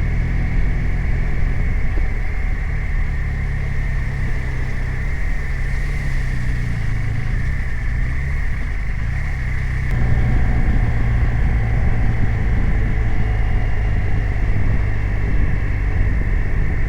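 BMW R 1250 RT's flat-twin boxer engine running under way. The engine note eases a little just before the middle, then gets louder and fuller about ten seconds in as the bike pulls harder.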